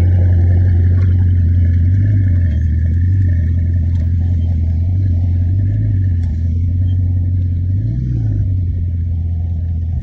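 High-performance car engine running at a steady low pitch, a deep drone that lifts slightly in pitch a few times as the throttle is eased on and off.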